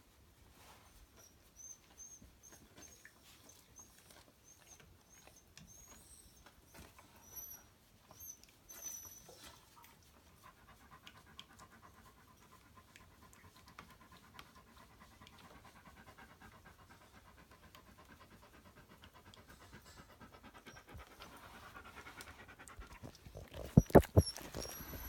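A tiny poodle panting rapidly and quietly. A few loud, sharp knocks come near the end.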